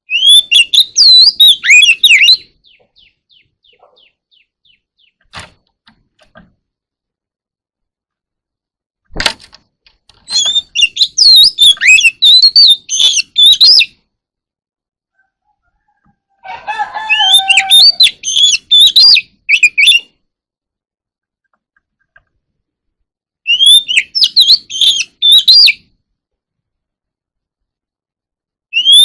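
Oriental magpie-robin singing: loud bursts of rapid, varied whistled notes, each phrase a few seconds long, about five phrases separated by pauses of several seconds. A sharp click about nine seconds in.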